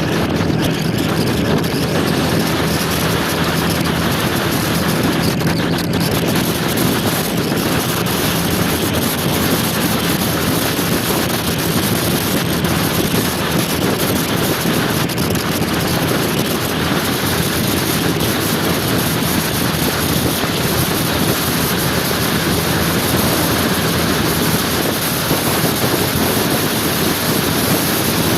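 Motor scooter engine running at a steady cruising speed, with wind rushing over the microphone.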